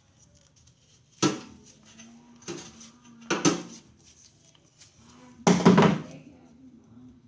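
Hard objects knocked and clattered while being handled: four sharp clatters, the last and loudest about five and a half seconds in, over a faint steady hum.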